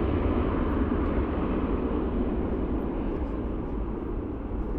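Jet engines of a departing Airbus A321 (IAE V2500 turbofans) climbing away, a steady roar that gradually fades.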